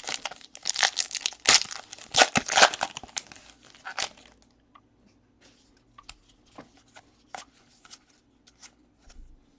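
Card pack wrappers being torn open and crumpled, a dense rustling for about the first four seconds. Then quieter handling of the cards with a few light clicks and rustles.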